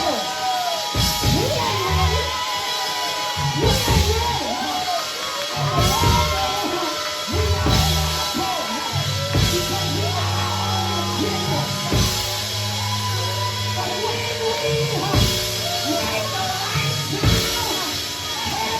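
Live church band music with drums and bass, a crash about every two seconds, and a voice singing and calling out over it in a large hall.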